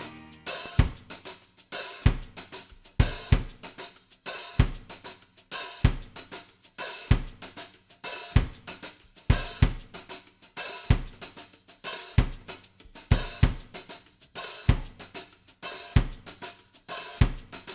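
Background music in a drums-only passage: a drum kit playing a steady beat of kick, snare and cymbal or hi-hat hits.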